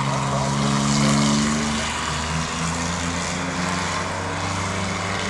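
Racing trucks' engines running on a speedway track, several engines heard at once at fairly steady pitches, with the tones shifting about two seconds in.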